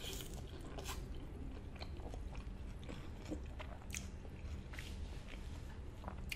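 A person chewing a mouthful of birria queso taco with the mouth closed: quiet, scattered small clicks and smacks of the mouth.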